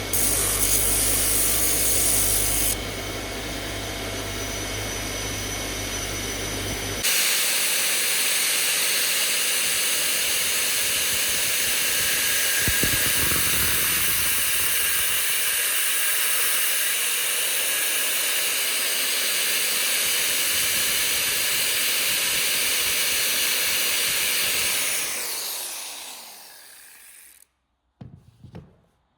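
Electric power tool running continuously, its sound changing about seven seconds in to a steady high hiss, then switched off and spinning down over a couple of seconds near the end.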